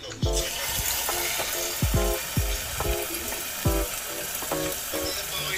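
Food sizzling as it fries in a pan, a dense hiss that starts just after the beginning, over lo-fi background music with a steady kick-drum beat.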